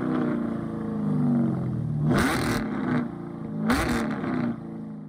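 Car engine revving: the pitch climbs sharply and falls back twice, about a second and a half apart, between stretches of steadier running. It drops away near the end.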